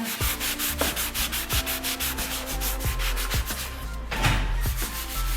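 Sandpaper rubbed by hand on a wooden chair in quick back-and-forth strokes, about five a second.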